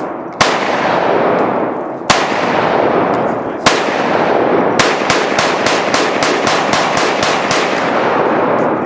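Gunfire: three single shots spaced about a second and a half apart, then a rapid string of about a dozen shots at four to five a second, each followed by a long rolling echo.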